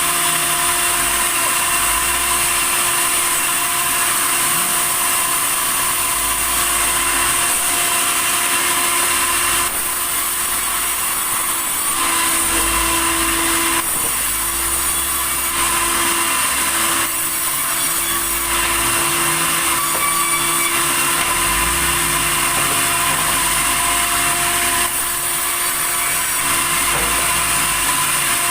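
Sawmill saw running steadily, cutting through red tasak timber, a continuous loud machine noise with a few brief dips.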